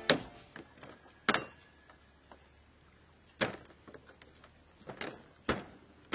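A handful of sharp knocks at uneven intervals, about six in all, with a faint steady high-pitched drone underneath.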